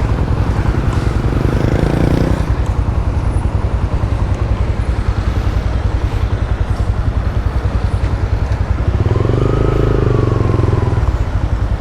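Motorcycle engine running steadily, its firing pulses dense and even. Another vehicle's engine swells briefly near the start and again about nine seconds in.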